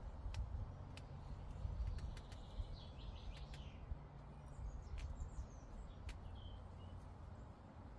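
Meadow ambience: a steady low rumble with scattered sharp clicks, and a few short bird chirps around the middle.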